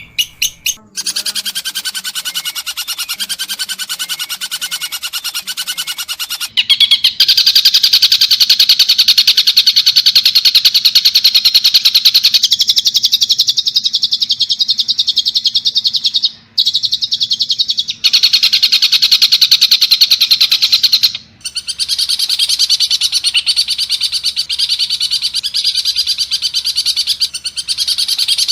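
Long-tailed shrike (pentet) calling in harsh, rapid-fire strings of short notes, in passages that break off and restart a few times.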